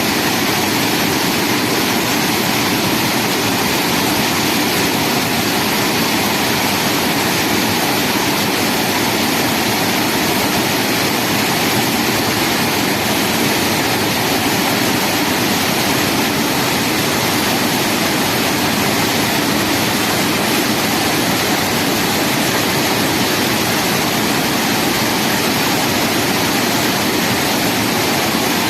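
Loud, steady rush of falling or fast-flowing water, unbroken and without pauses.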